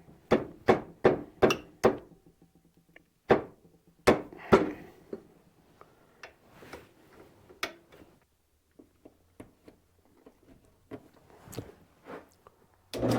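Wooden knocks as a branch leg is fitted into a wood lathe: a quick run of about six knocks in the first two seconds, three more single knocks a few seconds in, then faint clicks and rattles, and a louder clunk right at the end.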